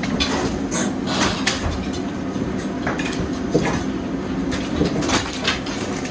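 A machine engine runs steadily under irregular clattering and knocking, the sound of demolition debris being handled.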